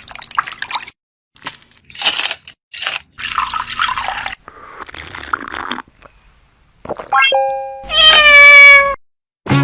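A cat meowing: one long, loud meow near the end, slightly falling in pitch, after a few short scuffling noises.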